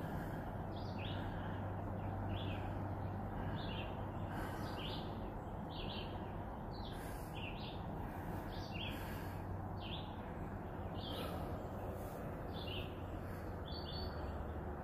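Birds chirping, short high calls repeating about once a second, over a steady low rumble of distant highway traffic.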